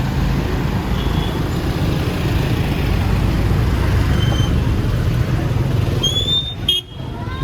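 Busy city street noise: a steady low rumble of passing road traffic. The sound briefly drops out near the end.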